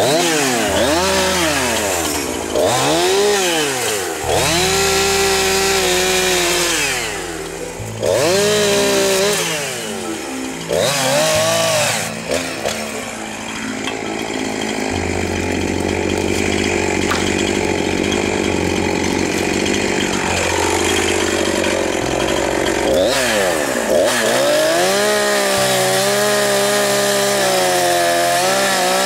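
Two-stroke chainsaw revving up and down again and again as it cuts into hedge wood, with a steadier run in the middle.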